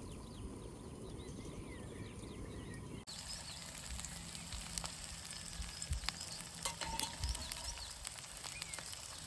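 Food frying in a pan on a camp stove: a faint sizzling hiss with small sharp crackles and pops. It follows a cut about three seconds in; before it there is only a low rumble with faint chirps.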